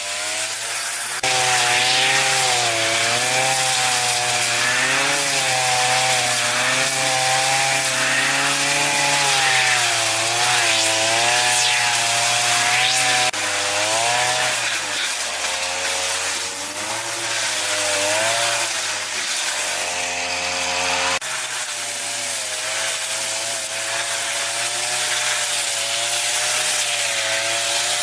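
Chainsaw cutting wood, its engine note rising and falling as it bites into the log, with abrupt jumps in the sound a few times.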